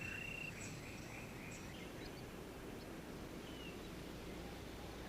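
Faint rainforest ambience: a steady high insect buzz and a few short chirps, over a low steady hum.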